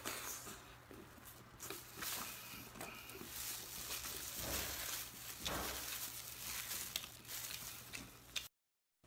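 Close-up eating sounds: a man chewing braised beef, with many short wet mouth clicks and the handling of meat in plastic-gloved hands, over a steady low hum. The sound cuts off suddenly just before the end.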